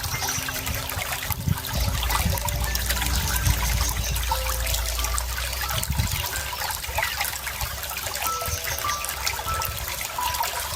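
Running water trickling and bubbling in a small stream, a steady splashing rush with small gurgles.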